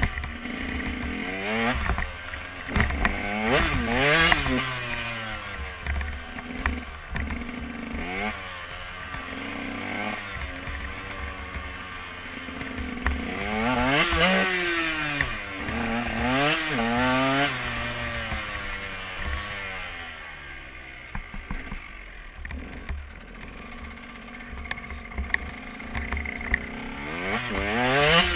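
KTM 125 EXC Six Days two-stroke single-cylinder enduro engine, heard from the rider's helmet, revving up and dropping back again and again as the bike accelerates and shifts. About two-thirds of the way through the revs fall to a quieter, lower run for several seconds, then climb sharply again near the end.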